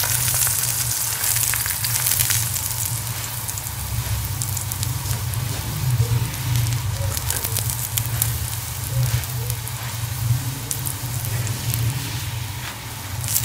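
Mooli paratha frying in ghee on a hot iron tawa: a steady sizzling hiss with scattered small crackles, over a low steady hum.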